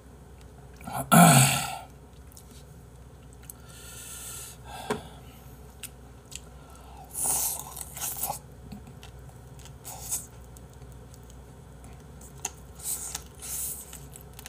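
A person eating braised spicy chicken and rice close to the microphone: scattered chewing and mouth noises, with one loud sudden mouth sound about a second in.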